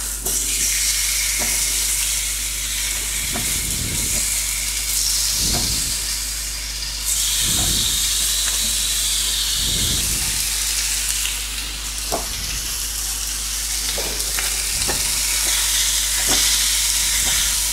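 Onions sizzling as they fry in a hot pan, a steady hiss with a utensil knocking against the pan now and then as they are stirred.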